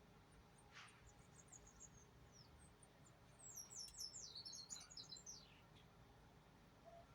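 Small birds chirping faintly in high, short notes, with a quick run of rapid falling chirps about halfway through.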